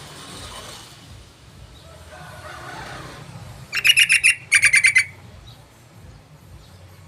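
Yellow-vented bulbul (trucukan) calling: two quick bursts of rapid chattering notes, about six or seven notes each, one straight after the other a little before the middle.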